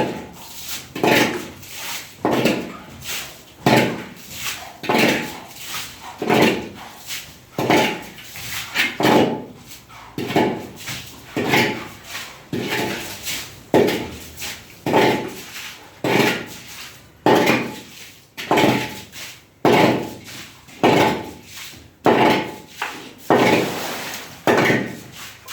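Repeated strikes of a hand tool at a steady pace of about one a second, each a sharp knock with a short scraping tail, typical of manual construction work.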